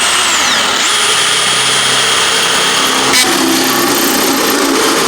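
Electric drill cutting a 1-inch hole through the car door's sheet steel. The motor whine dips and picks up again about a second in, then holds steady.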